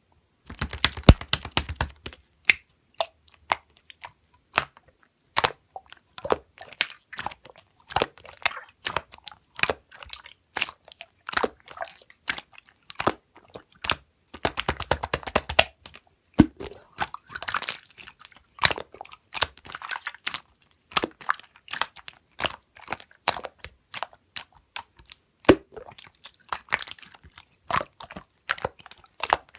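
Slime being played with by hand: crunchy crackling and sharp sticky pops, in irregular clusters with two dense runs of crackling near the start and about halfway through.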